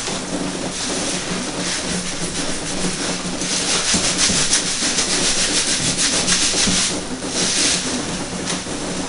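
Hands scrubbing wet hair lathered with shampoo: a continuous rubbing, squelching scrub that grows louder about three and a half seconds in and eases off near seven seconds, over a steady low hum.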